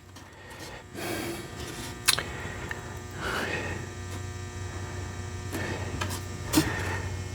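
Small cedar trim pieces being handled and set against the feeder's roof, with soft scuffs and a couple of light clicks, over a steady low electrical hum.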